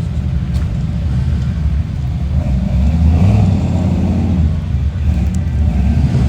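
A car engine rumbling as a car rolls by, growing louder about two and a half seconds in and easing off after about four and a half seconds.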